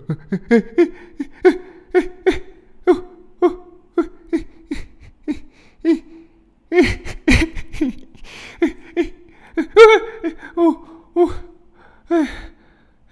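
A person's voice making short gasping cries in a steady run of about two a second, with a louder cluster of strained cries about seven seconds in and another near ten seconds.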